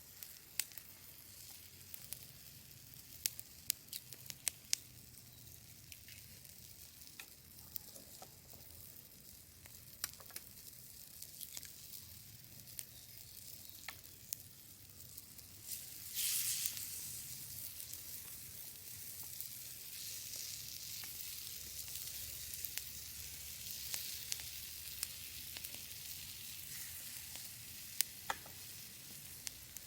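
Food frying and sizzling in a pan over a wood fire, with scattered sharp clicks. About sixteen seconds in, the sizzle suddenly grows louder and stays louder.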